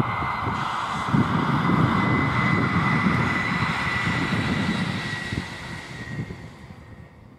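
Two-car diesel multiple unit passing on the line, a running rumble with a steady high whine over it, fading away over the last couple of seconds as it moves off.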